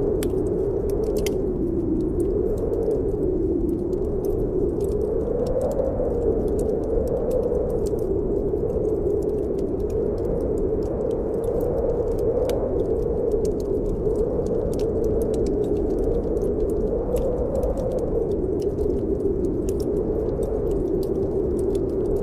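Snowstorm wind blowing steadily, its pitch wavering slowly up and down, with a wood fire crackling in scattered sharp pops over it.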